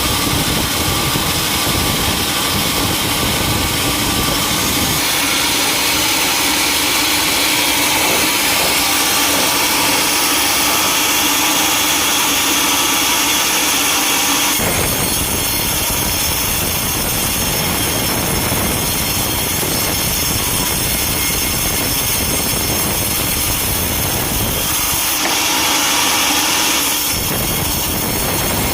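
Sawmill machinery running and sawing timber, a loud continuous mechanical noise. Its character changes abruptly several times as one clip cuts to the next.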